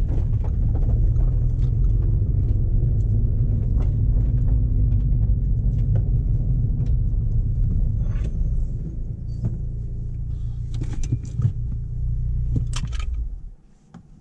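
Renault Megane RS engine and Akrapovic exhaust running with a steady low note. The note eases a little about nine seconds in and cuts off suddenly near the end as the engine is switched off, with a few sharp clicks just before.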